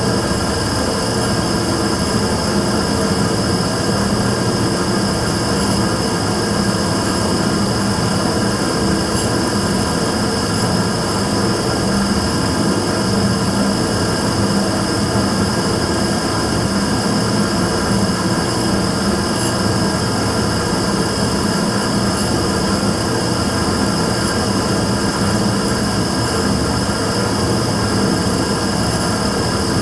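Immersion tube burner running continuously with an abnormal noise: a steady loud rushing sound carrying a low hum and a thin high whine, unchanging throughout.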